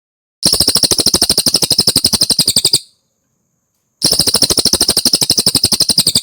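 Cililin songbird singing two loud, rapid trilled phrases of about two and a half seconds each, a fast rattle of about twenty notes a second, with a short silent gap between them.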